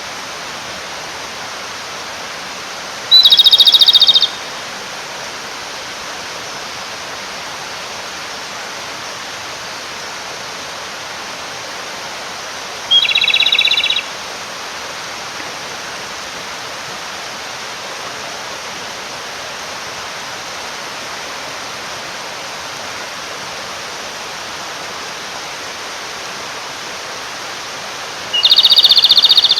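Japanese robin singing its rapid rattling trill three times, each song about a second long, over the steady rush of a mountain stream. The male is singing to call a female.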